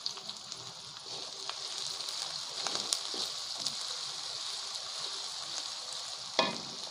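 Sliced onions and garlic sizzling in hot oil in a steel wok, with scattered clicks and scrapes from a wooden spatula stirring them. The sizzle grows a little louder about a second and a half in.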